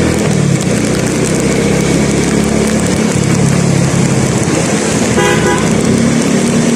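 A vehicle engine running steadily under loud road and wind noise, with a short horn toot about five seconds in.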